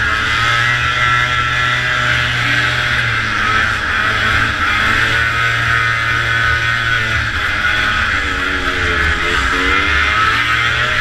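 Antique snowmobile's two-stroke engine running hard at race speed under a steady rushing noise. Its pitch dips and climbs again near the end as the throttle eases off and opens back up.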